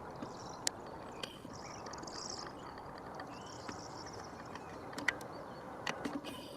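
Faint outdoor ambience: small birds chirping over a steady low rumble, with a few short sharp clicks.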